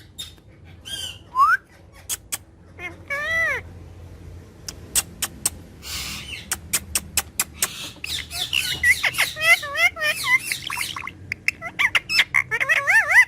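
Pet parrot vocalizing: a string of sharp clicks, a harsh squawk about halfway through, then rapid warbling chirps and whistles in the second half.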